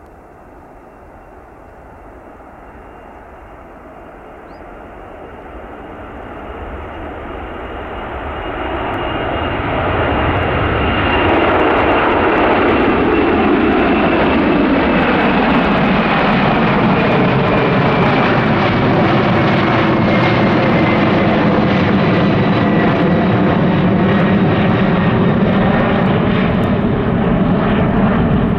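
Boeing 747-400's four jet engines at takeoff power, growing louder over about the first ten seconds as the jet approaches, then steady and loud. A thin high whine slowly falls in pitch over the roar.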